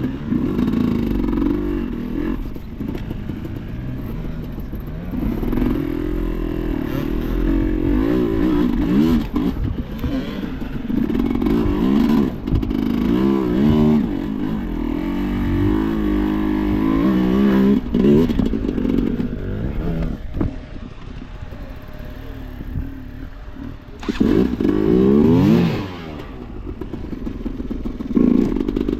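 Enduro motorcycle engine being ridden hard, revving up and dropping back again and again, with clattering from the bike. It eases off for a few seconds about two-thirds of the way through, then revs sharply again.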